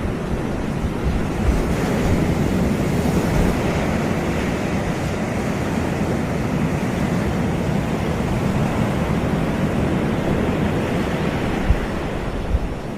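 Surf washing onto a beach, a steady rush that swells and eases, with low wind rumble on the microphone.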